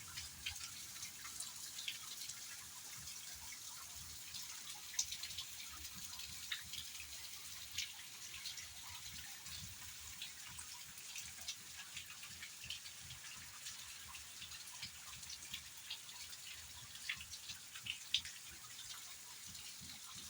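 Rain falling: a steady hiss with many separate drops ticking and dripping at irregular moments, a few of them louder.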